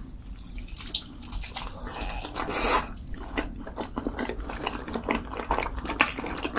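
Close-up eating sounds of spicy food: wet chewing and a run of quick mouth clicks and lip smacks, with one louder noisy burst about two and a half seconds in.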